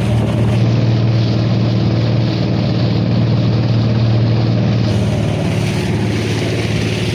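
Small motorboat's engine running steadily while under way, a constant low hum with a wash of rushing noise over it.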